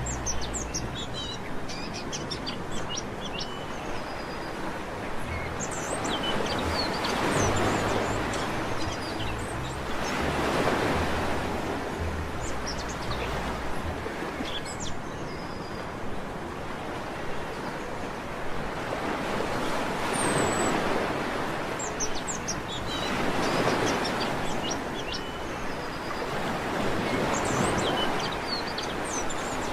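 Sea waves washing onto a beach, the surf swelling and falling back every few seconds, with small birds chirping in short high notes over it.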